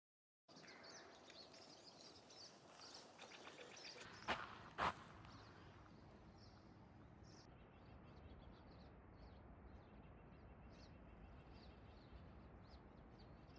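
Faint outdoor ambience with small birds chirping now and then, and two sharp knocks a little over four seconds in.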